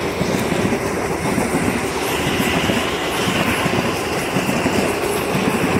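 Southeastern electric multiple unit running past on the tracks below, a steady rumble with its wheels clicking over rail joints, the clicks more frequent in the second half.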